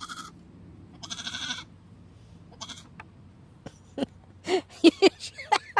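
A goat with its head stuck in a fence gate bleating: a long wavering cry about a second in and a shorter one a little later. A string of short sharp sounds follows in the last two seconds.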